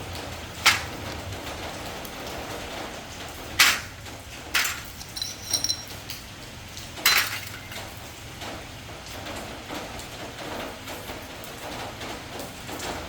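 Metal parts and tools knocking and clinking against each other over a steady hiss: several separate sharp clanks, with a quick run of ringing clinks about five seconds in.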